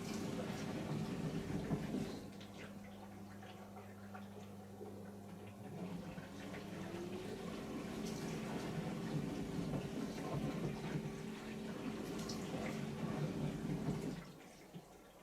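Bosch SKS60E02GB compact dishwasher running its wash cycle: a pump hums under the splashing of water inside the tub. The hum shifts about two seconds in, rises in pitch around seven seconds, and stops about a second before the end.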